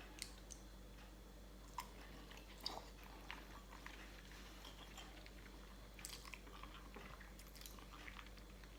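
Faint chewing and mouth clicks of someone eating boiled chicken feet with papaya salad, with scattered small clicks and a few sharper ones in the first three seconds.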